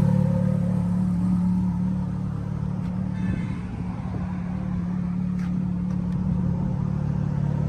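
Ferrari F430's 4.3-litre V8 idling steadily, its low exhaust note easing a little in level over the first two seconds, with a couple of faint ticks.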